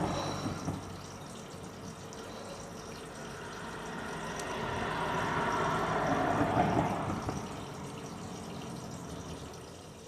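Noise of a vehicle passing by, swelling slowly to a peak about six or seven seconds in and then fading away.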